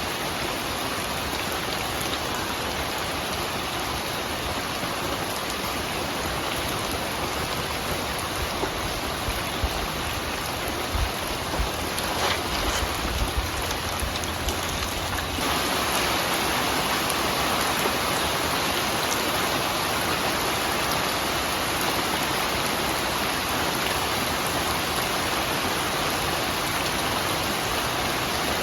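Steady rain falling, a little louder from about halfway through, with a few low thumps shortly before the change.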